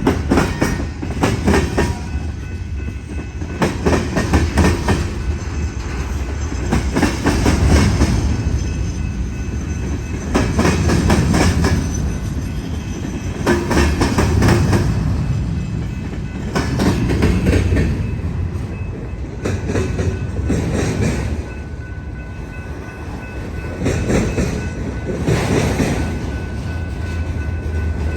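Freight cars of a long Union Pacific manifest train rolling past, wheels banging over a rail diamond crossing in clattering clusters about every three seconds over a steady low rumble.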